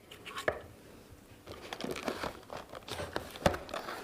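Packaging of a boxed wireless microphone set being opened by hand: irregular crinkling and rustling with scattered small clicks, the sharpest near the end.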